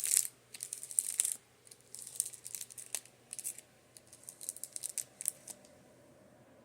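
Makeup brushes tapped and rubbed, giving bursts of dry, scratchy, crinkly bristle sounds that stop about five and a half seconds in. A fan hums steadily underneath.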